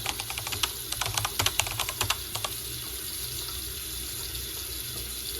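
Rapid, irregular clicking, like tapping or typing, for about the first two and a half seconds, then only a steady hiss.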